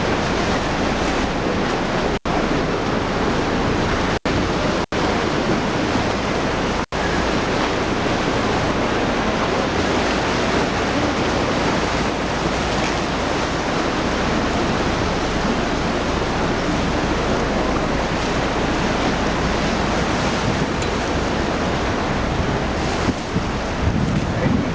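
Steady rush of wind on the microphone and sea noise aboard a tour boat, with a low rumble underneath, broken by four very short gaps in the sound within the first seven seconds.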